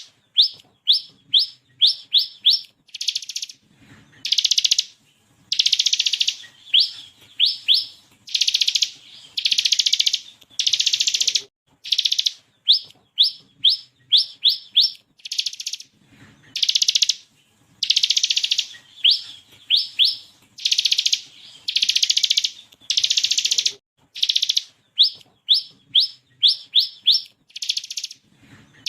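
Bar-winged prinia (ciblek kristal) singing: buzzy trills just under a second long alternate with quick runs of four to six sharp, rising whistled notes, the pattern repeating over and over.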